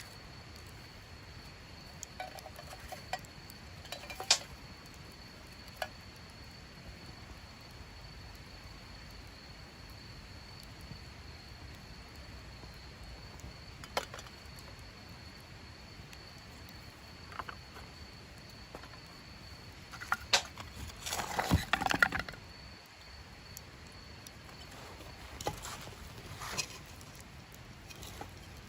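Sparse light metallic clinks and taps of camp gear being handled, with a short, louder flurry of clinking and rattling about two-thirds of the way through, over a faint steady high-pitched tone.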